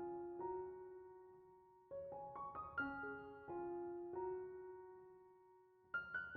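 Background music: a slow piano melody of struck notes that ring and fade, in short repeating phrases.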